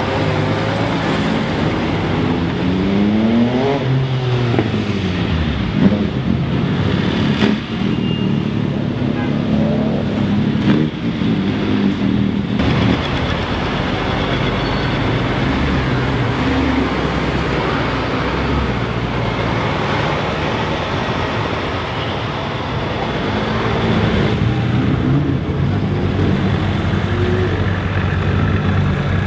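Cars driving slowly past one after another, engines running, with engine pitch rising and falling as they pull away, over crowd chatter and street noise.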